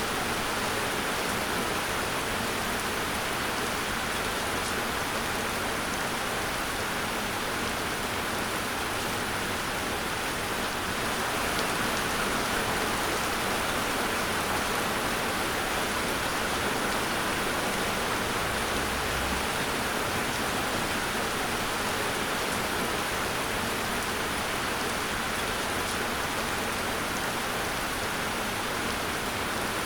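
Steady rain falling on a surface, an even hiss without thunder.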